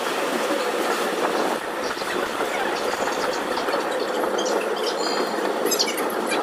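Passenger train coaches running along the track, a steady rumble and rattle of wheels on rails heard from the open coach doorway. There are a few short high wheel squeals about five seconds in.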